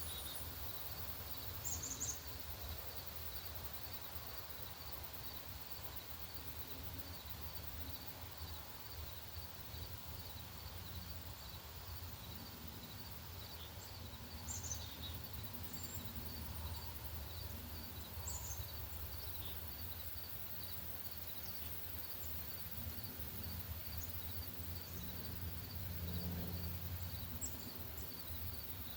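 Outdoor ambience with a low rumble and scattered short, high songbird chirps, over a faint high note repeated evenly about twice a second.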